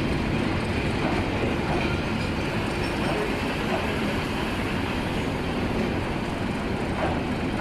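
Surma Mail passenger train running along the track, a steady noise of wheels and carriages on the rails.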